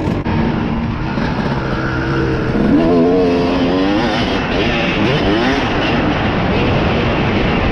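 Dirt bike engine revving, its pitch climbing and dropping a few times, with a steady rush of noise underneath.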